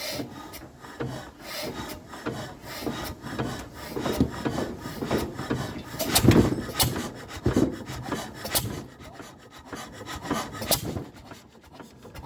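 1931 Ruston engine being turned over by hand with its starting handle to start it: uneven, repeated surges of scraping and clanking with sharp clicks, loudest about six seconds in.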